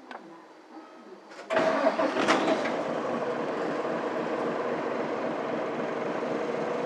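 Mitsubishi Fuso Aero Star bus's 6M70 inline-six diesel engine cranking and firing about a second and a half in, with a couple of sharp knocks, then settling into a steady idle.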